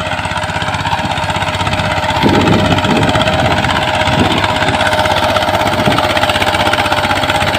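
Mini tractor's engine running with a rapid, steady chugging beat, getting louder a little over two seconds in.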